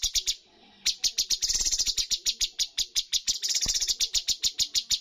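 Cucak cungkok bird singing a fast run of sharp, repeated staccato notes, about eight a second, with a brief pause just under a second in.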